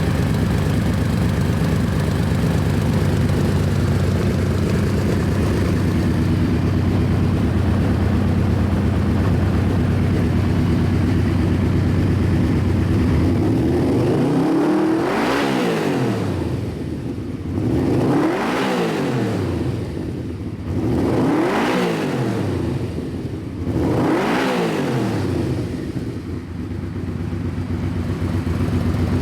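1993 Yamaha V-Max motorcycle's V4 engine idling steadily, then revved four times about three seconds apart, each rev rising and falling back to idle, before settling into a steady idle again.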